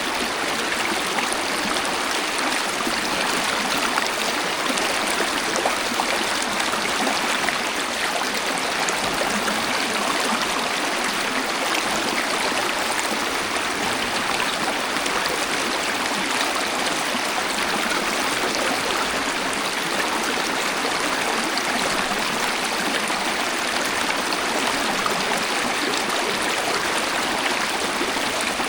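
Waterfall: water falling and splashing in a steady, unbroken rush with little deep rumble.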